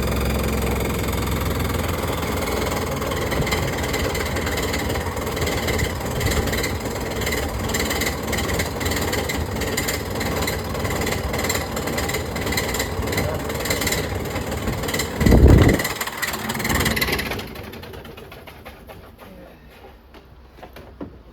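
De'Longhi Pinguino EL110 portable air conditioner running with a loud, fast rattling and knocking noise: the unit is broken after only a handful of uses. A heavy thump comes about 15 seconds in, and the racket dies away soon after, leaving a faint hum.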